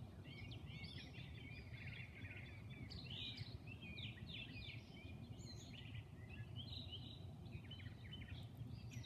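Several small songbirds chirping and singing faintly, with many short sliding notes and trills overlapping, over a steady low background rumble.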